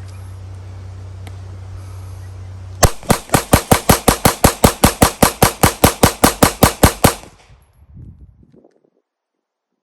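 Rapid semi-automatic fire from a Glock pistol fitted in a Recover Tactical 20/20 chassis: about twenty shots in quick even succession, about five a second, emptying a 22-round magazine. The shots start about three seconds in and stop about seven seconds in.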